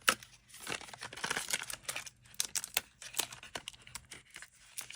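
Packaging of a pen set being handled and pulled at, crinkling and rustling in irregular crackles, as someone tries to get the label sheets out.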